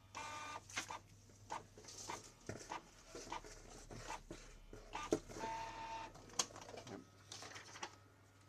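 Canon G2000 inkjet printer printing noisily: a busy run of clicks, clacks and short squeaks from its moving mechanism. The owner puts the noise down to dried-out grease on the moving parts, the print head and gears.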